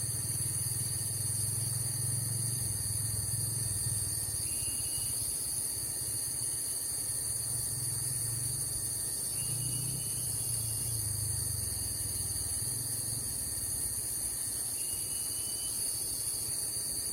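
Steady high-pitched drone of an insect chorus, with three faint short chirps about five seconds apart and a low rumble that comes and goes, fading out about two-thirds of the way through.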